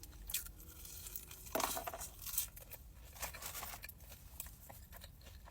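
Close-miked eating sounds: crunchy bites and chewing of crispy fried food, with scattered light clicks and rustles from handling it. The loudest crunch comes about a second and a half in.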